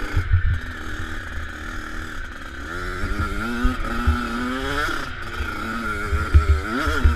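Motocross bike engine revving hard while ridden over a dirt track, its pitch climbing and dropping several times with the throttle and gear changes from about halfway through. A heavy, gusty low rumble of wind on the helmet camera runs under it.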